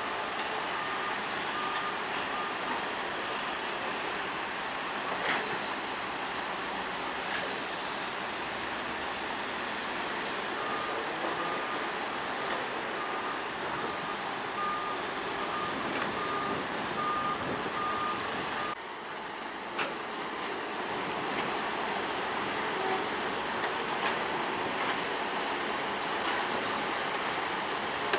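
Heavy earthmoving machinery working: diesel engines running with a steady high whine, and a reversing alarm beeping in two spells, briefly at the start and again for several seconds midway.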